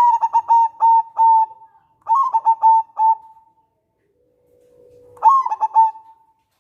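Zebra dove (local Indonesian perkutut) cooing: three phrases of quick, clipped, bubbling notes, the third one led in by a soft low note about a second after the second phrase ends.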